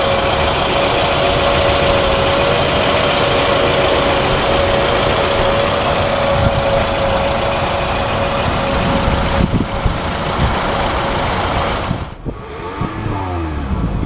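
2010 Scion tC's 2.4-litre four-cylinder engine idling, heard from the open engine bay, with a steady whine over it for most of the stretch and heavy wind noise on the microphone. Near the end the sound drops briefly.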